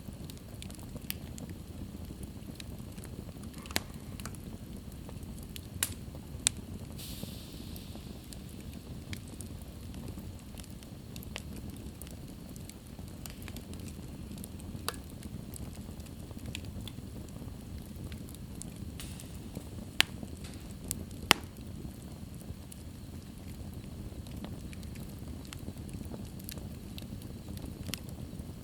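Wood fire burning in a fireplace: a steady low rumble of flames with scattered sharp crackles and pops, the loudest two about 20 and 21 seconds in, and a brief hiss about seven seconds in.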